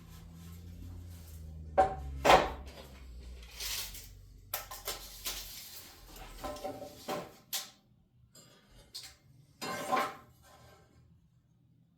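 Knocks and clatter of lumber and tools being handled during stud cutting: a string of separate sharp knocks and clinks, the loudest about two seconds in, over a low hum that fades out about halfway.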